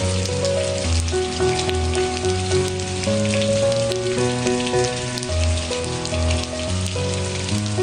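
Steady rain patter with a soft melodic music bed underneath: held notes moving every half second or so over a low bass line.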